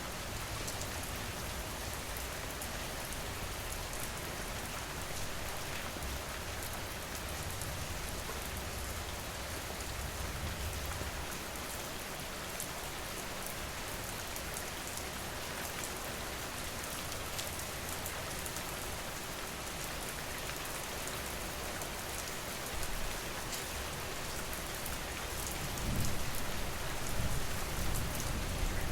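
Steady rain falling on a surface, a dense even hiss with fine drop ticks. A low rumble swells near the end.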